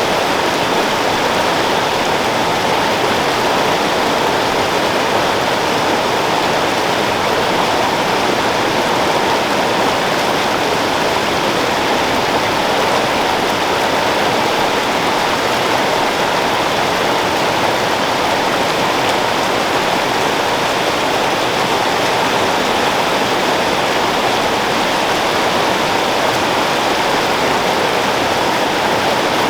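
Creek water flowing, a loud, steady, unbroken wash of water noise.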